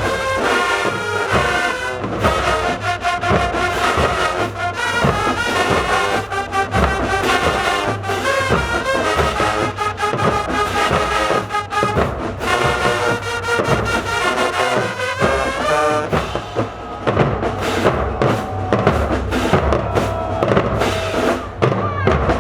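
High school marching band playing loud brass, trombones and trumpets, over a drumline beat.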